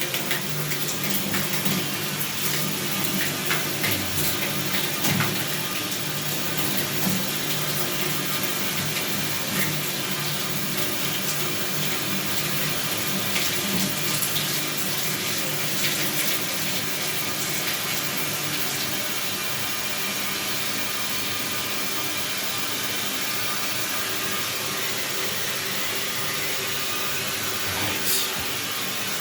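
Water running steadily from a tap or pipe, an even rushing hiss, with a few short knocks in the first several seconds.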